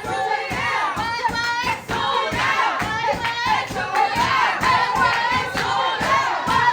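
A group of many voices singing and shouting together over a quick rhythmic beat of hand claps.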